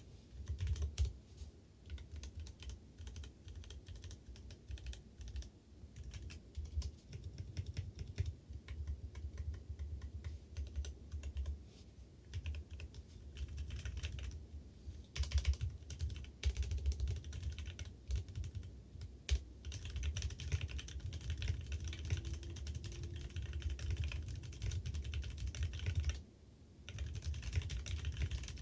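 Fast typing on a Leopold FC660M mechanical keyboard with an aluminium case and lubed, foam-dampened Kailh Speed Bronze non-clicky tactile switches: a dense run of keystroke clacks over a low thudding from the desk resonating. The typing stops briefly twice, about halfway and near the end.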